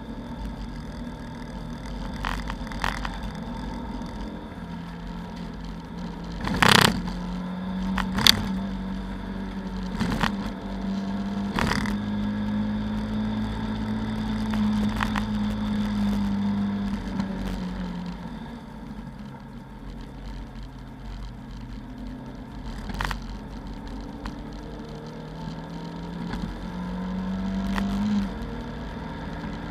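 Lada 2109 race car's four-cylinder engine heard from inside the cabin under load. The note climbs and holds, eases off about two-thirds of the way through, then climbs again and drops suddenly near the end. Two loud sharp knocks a second and a half apart come about a quarter of the way in, with lighter clunks scattered around them.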